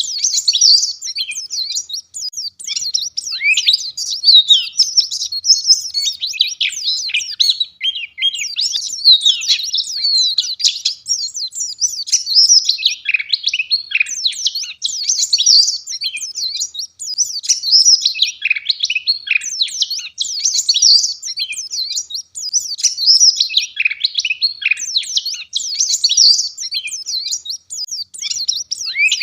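Wild white-eye (pleci) in full song: a fast, unbroken stream of high, sharp chirps and trills, densely packed with hardly a pause.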